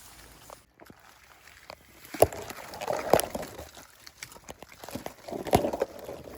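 Footsteps and rustling through undergrowth, with a few sharp knocks about two, three and five and a half seconds in.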